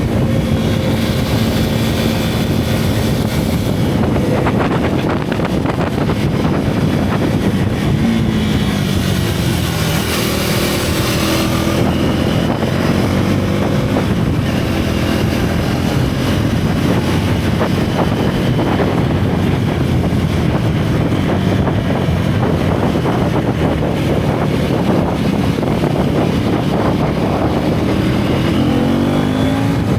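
Single-cylinder motorcycle engine running under way, its pitch dipping about eight seconds in and rising again near the end, with wind on the microphone.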